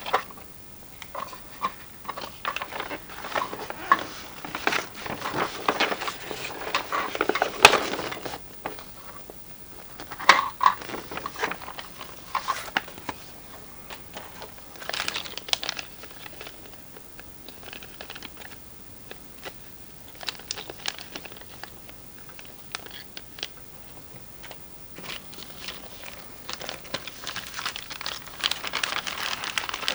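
Packaging being handled: crinkling and rustling with scattered sharp clicks and taps. It is busiest in the first dozen seconds, with the loudest click about eight seconds in, quieter in the middle and busier again near the end.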